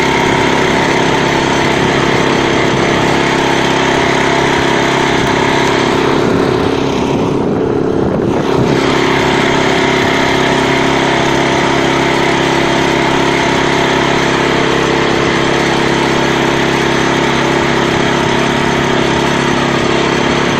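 Walk-behind tractor (motoblock) engine running steadily, its note briefly dipping and thinning about seven to eight seconds in.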